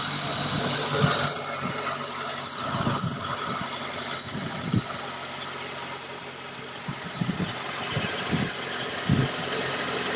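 Car engine idling while its drive-belt roller squeaks, a rapid high chirping over the steady engine hum: the squeaking roller is the fault being shown.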